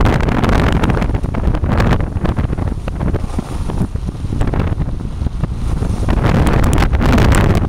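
Wind buffeting the microphone outdoors: a loud, unpitched low rumble with irregular crackling gusts.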